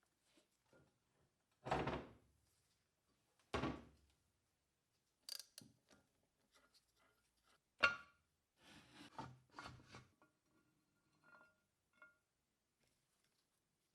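Heavy metal workshop parts being handled on a workbench: two dull clunks about two seconds apart, a click, then a sharp knock near the middle, followed by scraping and a few light clicks.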